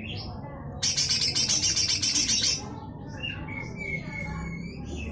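Cucak hijau mini (small green leafbird) singing: soft whistled chirps, then about a second in a loud, harsh, rapid rasping burst (its 'besetan kasar') lasting nearly two seconds, then soft chirps again.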